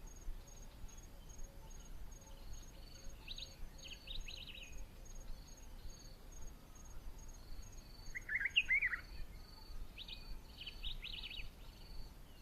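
Bush ambience: an insect chirping in short, evenly spaced pulses throughout, with bursts of bird calls three times, the loudest about two-thirds of the way in.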